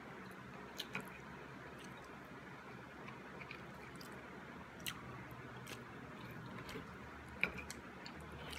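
A person quietly chewing and eating with wooden chopsticks, with a few small sharp clicks and taps scattered through, the sharpest about a second in, near the middle and near the end.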